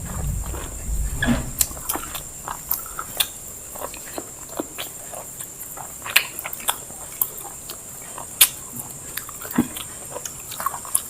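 Close-miked eating sounds: people chewing biryani, with irregular wet smacks and clicks of mouths and food. A low rumble in the first second or so.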